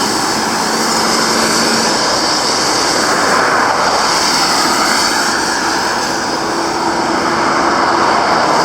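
Road traffic going past on both lanes: a steady roar of engines and tyres, with a faint engine hum now and then.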